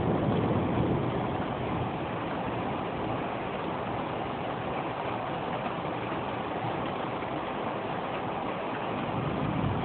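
Steady rain falling during a thunderstorm, an even hiss throughout. The tail of a thunder rumble dies away over the first second or two.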